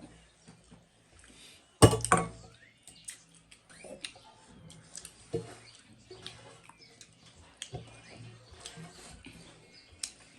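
Close-up eating sounds: chewing, lip smacks and small clicks of food and hands, with one loud sharp knock about two seconds in.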